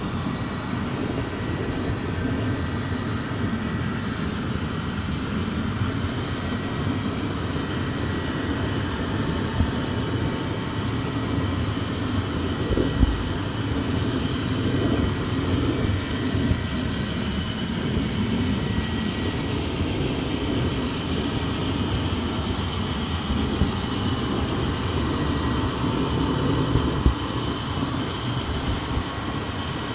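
Train in motion: a steady running rumble with a faint steady whine and an occasional knock.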